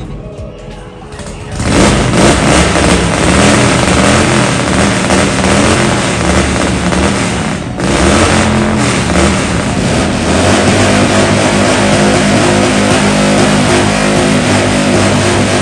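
Motorcycle engine starting about a second and a half in and being revved several times, the pitch rising and falling with each blip, then settling to a steadier run.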